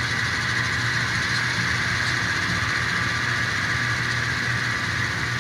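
Sound-equipped N scale diesel locomotive's sound decoder playing a steady diesel engine sound through its small speaker while the locomotive stands still.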